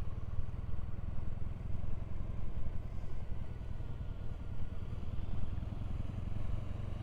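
Triumph Bonneville parallel-twin motorcycle engine running steadily under way, a low even rumble with no change in revs.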